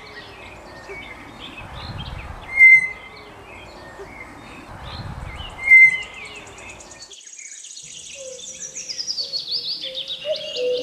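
Tapir giving short, loud high-pitched squealing whistles, twice about three seconds apart, over a background of bird chirps. About seven seconds in the background changes to birdsong with a falling run of notes.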